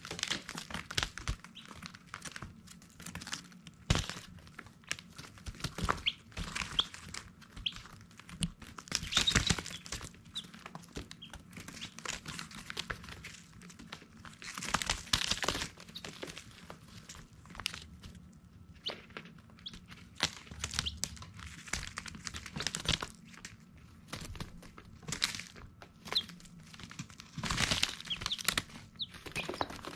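Baby chicks peeping now and then over a constant rustling and tapping, like chicks scratching and pecking in litter.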